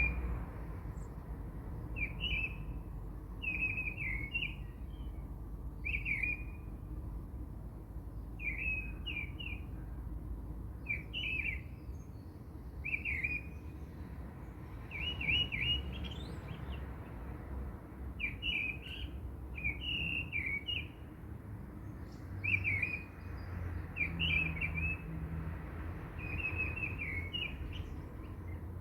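Birds chirping: short chirps in little clusters every second or two, over a low background rumble.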